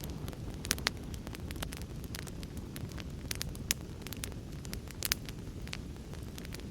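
Wood fire in a fireplace crackling, with irregular sharp pops and snaps, over a steady low rush of heavy rain.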